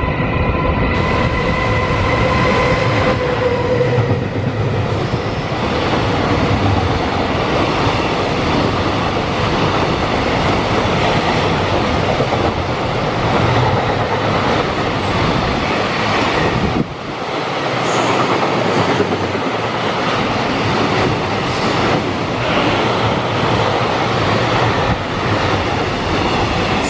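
EF210 electric locomotive and its long container freight train passing close by at speed, with a continuous rumble and clatter of wagon wheels on the rails. Over the first few seconds a steady whine from the locomotive drops slightly in pitch and fades as it goes by.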